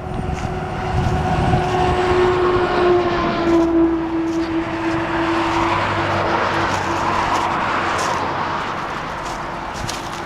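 A motor vehicle driving past: a steady engine tone that sinks slightly in pitch and fades, followed by a swell of rushing road noise that eases off near the end.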